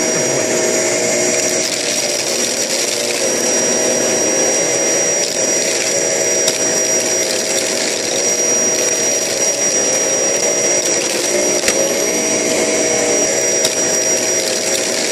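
Vacuum cleaner motor running steadily with a constant high whine, its lower tones wavering slightly.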